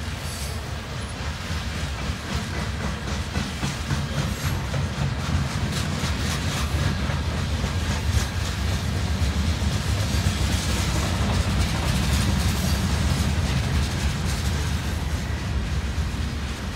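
Freight train cars rolling past: a steady low rumble with the quick clicking and clatter of steel wheels on the rails, swelling somewhat louder midway.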